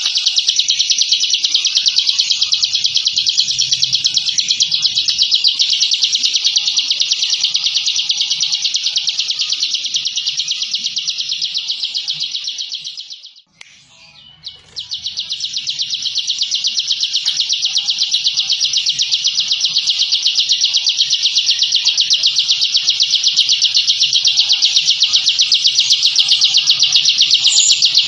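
Bar-winged prinia (ciblek) giving its long, dense rapid-fire trill, the 'ngebren' song, as one continuous high, finely pulsing stream. It breaks off for about a second halfway through, then carries on.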